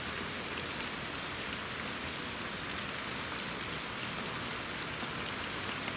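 Steady rain falling, with scattered sharper drops landing close by.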